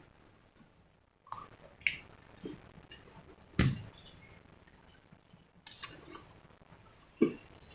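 Close-up eating sounds: a few scattered mouth clicks and smacks while chewing fried chicken, two of them sharper and louder.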